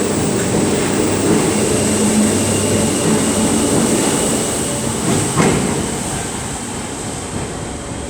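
Merseyrail Class 508 electric multiple unit pulling out of the platform. Its running noise slowly fades as it draws away, with a sharp clank about five seconds in.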